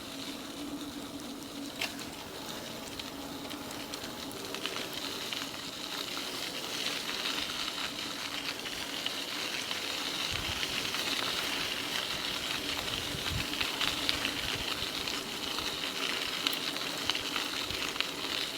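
Ride noise of a mountain e-bike on a trail: a steady hiss of the tyres rolling and air moving, with a faint low hum from its Bafang BBS02 mid-drive motor. The high hiss grows louder about five seconds in.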